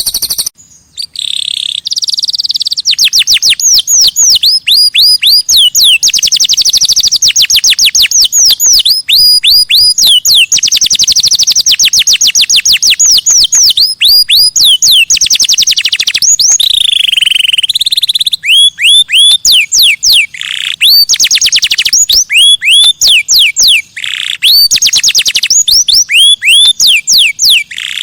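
Recorded songbird song played as a masteran track for tutoring caged contest birds. It is a loud, rapid string of high, sharply falling chirps in long runs, broken by brief pauses and a few lower, drawn-out notes.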